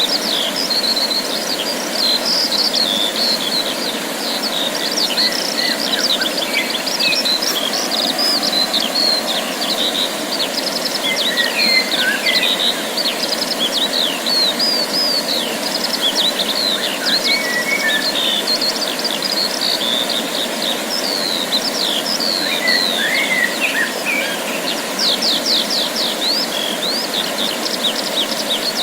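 Several songbirds singing together: a dense run of quick chirps, whistled sweeps and rapid trills, over a steady background hiss.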